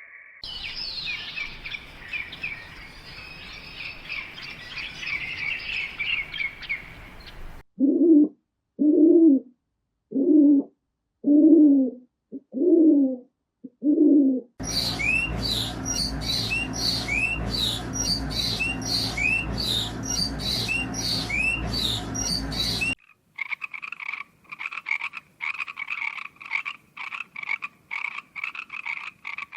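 A cut-together series of animal calls. It opens with a stretch of dense high chirping, then six separate low croaking calls about a second apart. Next comes a run of quick rising chirps over a low hum, and it ends with rapid high pulsed calls.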